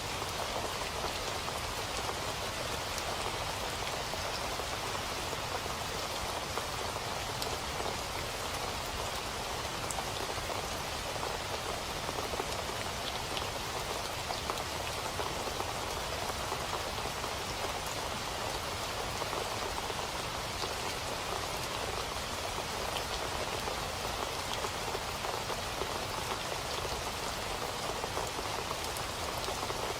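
Steady rain falling, a constant even patter of drops with no change in intensity.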